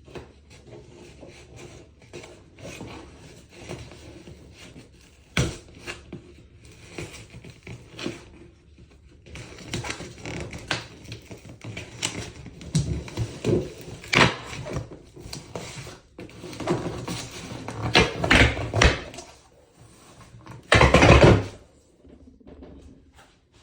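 Irregular knocks, clicks and scraping clatter of hard parts being handled. Near the end comes a louder burst of rushing noise lasting about a second.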